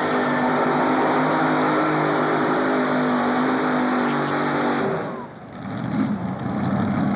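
Modified pulling tractor engines running steadily at a high, even pitch. About five seconds in, the sound drops away abruptly, and a rougher engine sound comes back a second later.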